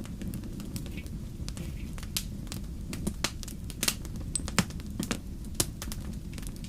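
Wood fire in a fireplace crackling, with sharp irregular pops and snaps, the loudest a little past halfway, over a steady low rumble.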